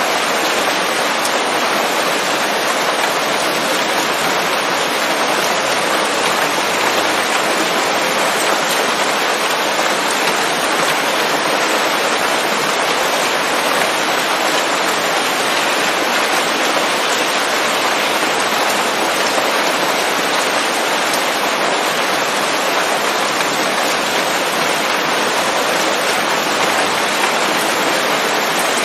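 Steady rain falling on leaves: an even, unbroken hiss.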